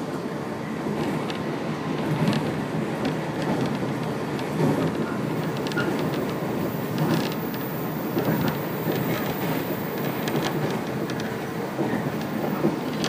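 Running noise heard inside a 115-series electric train: a steady rumble of wheels on rail, with scattered clicks and knocks.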